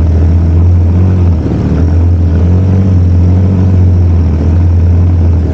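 Yamaha TW200's single-cylinder four-stroke engine running steadily under throttle while riding through mud, its pitch rising and falling slightly.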